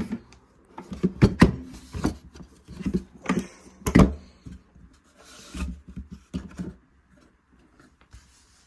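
A run of irregular knocks and rubbing noises for about seven seconds, the loudest about four seconds in, then it goes quiet.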